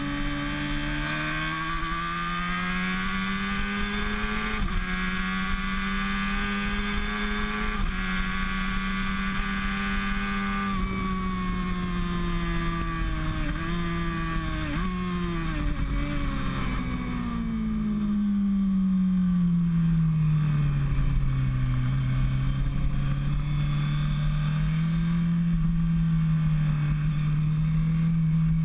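Motorcycle engine at speed on a race track, with wind rush. It revs up through the gears with shifts about five and eight seconds in, then downshifts with short rev blips and falls away through a corner. It builds again near the end.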